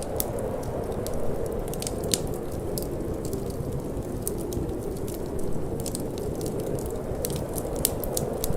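Wood fire in a fireplace crackling, with frequent small sharp pops and snaps, over a steady low rush of wind.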